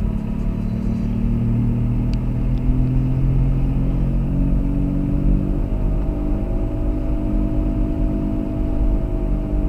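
Car engine and road rumble while driving, steady throughout, with the engine note shifting to a higher pitch a little past halfway.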